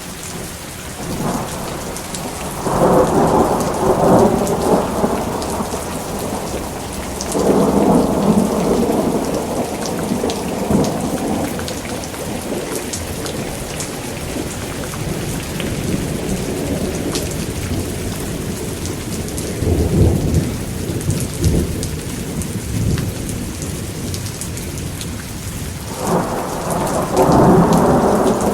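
Thunderstorm: steady heavy rain with rolling thunder that swells up four times, about a second in, near the quarter mark, past the middle, and again near the end.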